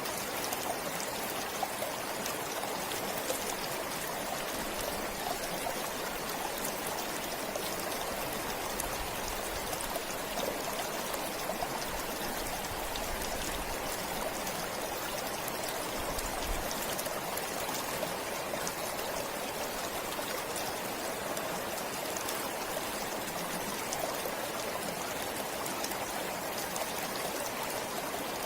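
A forest stream flowing steadily.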